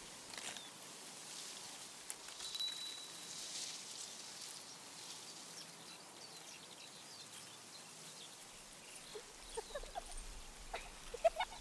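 Faint steady ambience with a few soft clicks, then, in the last few seconds, many short high chirps from small birds.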